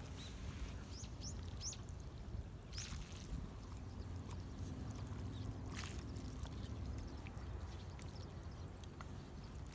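Faint, steady low outdoor background noise, with a few quick high bird chirps about a second in and two brief scuffing noises near three and six seconds.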